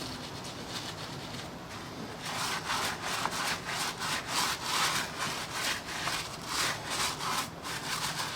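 Scrubbing a brake caliper by hand in rhythmic back-and-forth strokes, about two a second. The strokes start about two seconds in.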